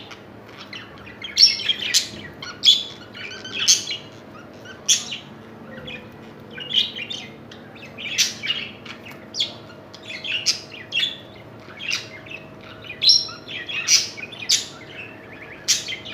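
Budgerigars chirping: short, sharp calls repeating roughly once a second over a faint steady hum.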